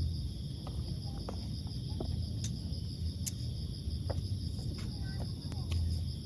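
A steady, shrill chorus of insects droning without a break. It sits over a low rumble, with a few short chirps and clicks scattered through.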